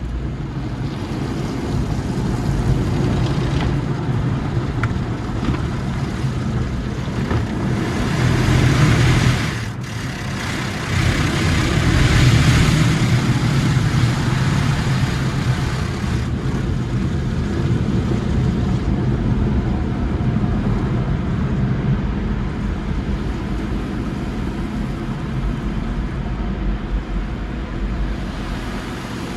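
Sonny's tunnel car wash equipment working over a car, heard from inside the cabin: a steady rush of noise with a low rumble. It swells louder about a third of the way in, drops briefly, then swells again.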